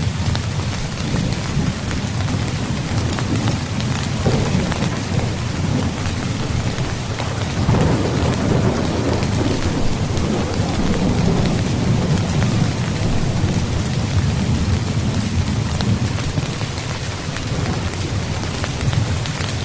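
Steady rain drumming on a tent, with a low rumble of thunder swelling about eight seconds in and fading over the next few seconds.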